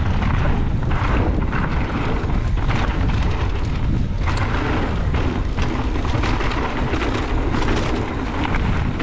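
Wind buffeting the microphone while a mountain bike is ridden fast down a dirt trail, with tyre noise and frequent knocks and rattles from the bike over bumps.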